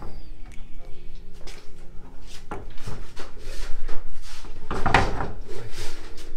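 Knocks and rubbing noises from a wrought iron door being worked on in its frame, several short strokes with a louder one about five seconds in, over background music.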